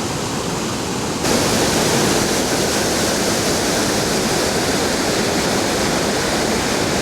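Sgwd y Pannwr waterfall roaring, a steady rush of falling water that suddenly gets louder and brighter about a second in.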